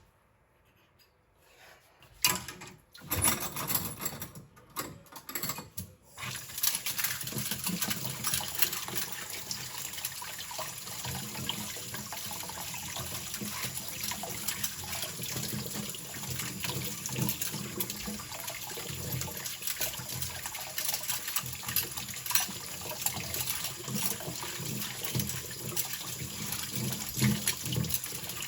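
Kitchen tap running into the sink while cutlery is rinsed, with scattered metal clinks. The opening seconds are near silent, then a short run of clinks, and the water comes on about six seconds in.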